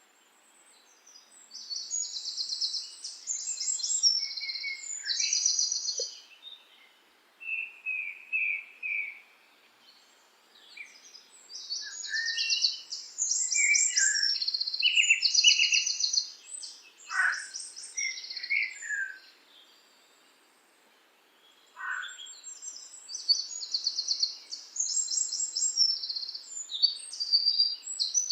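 A songbird singing a high song of rapid trills and short phrases, in three bouts separated by brief pauses.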